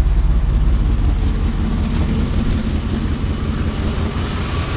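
A 2001 Dodge Ram's gas engine idling steadily, its exhaust pulsing in a low, even rumble. The exhaust leaks at the manifold and near the rear of the truck.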